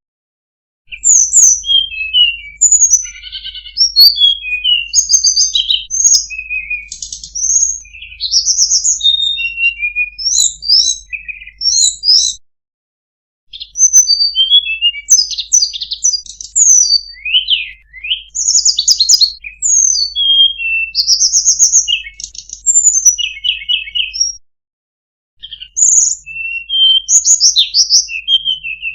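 Tledekan gunung singing a fast, varied song of high chirps, trills and whistled slurs. It breaks off for about a second twice, about 12 and 24 seconds in.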